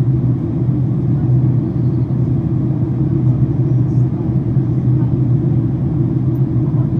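Steady low rumble of jet engines and rushing air inside the cabin of a Boeing 767-400ER airliner during descent, with a constant low hum.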